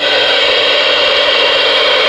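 Steady loud static hiss from the Ranger RCI-63FFD4 radio's speaker, starting abruptly as the answering station's transmission ends: the receiver's noise on the empty channel.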